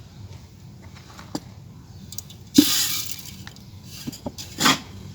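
Dry clay crumbling and breaking by hand: a few small clicks, then a sharp crack with a short crumbling tail about two and a half seconds in, and another crunch near the end.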